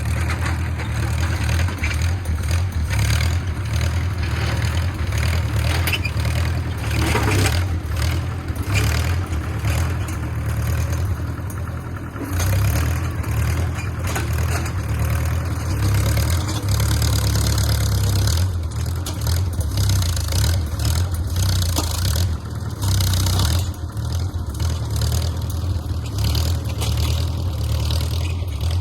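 Small 1950s crawler bulldozer's engine running hard with repeated clanks and knocks from the machine as it works, easing off briefly partway through before picking up again.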